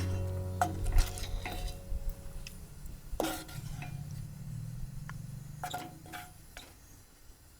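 Tableware clinking a few separate times, small sharp knocks with a short ring like metal and glass set down or tapped, while guitar music fades out.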